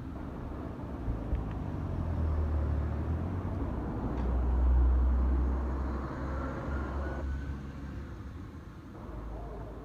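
Keikyu electric train passing: a low rumble that builds to its loudest about halfway through and then fades, with a faint rising whine for a moment after the peak.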